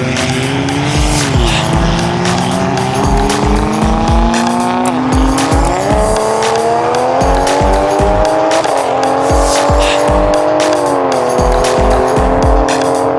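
Performance car engine at full throttle, its pitch climbing steadily through each gear and dropping sharply at about four upshifts, under music with a steady thumping beat.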